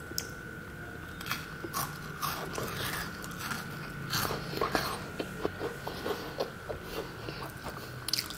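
Close chewing and biting of crunchy bear-shaped biscuits with a crisp dark-chocolate shell and matcha cream filling. Crisp crunches come irregularly at first, then about three or four a second from around the middle on. A faint steady high hum runs underneath.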